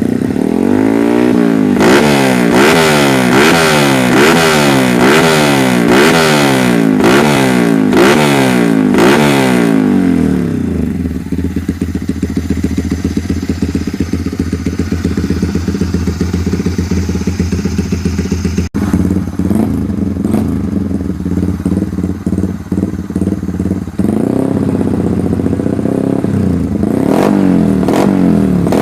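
Yamaha Vixion 150cc single-cylinder engine running through an aftermarket racing exhaust. It is revved up and dropped back about once a second, around ten times, then settles to a steady idle. After an abrupt cut it idles again, with a few short revs near the end.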